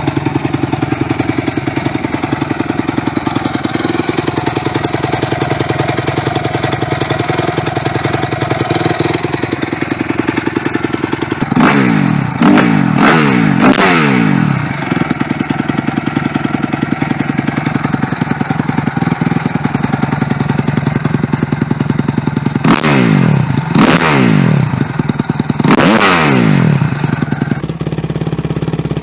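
Honda CRF250 single-cylinder four-stroke dirt bike engine through an aftermarket exhaust, idling with an even pulse. It is blipped sharply about four times in quick succession, settles back to idle, then is blipped three more times. Near the end the idle changes tone.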